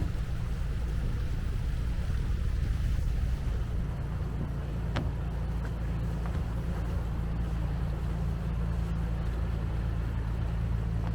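Fjord cruise boat's engine droning steadily, heard on board, with one short click about five seconds in.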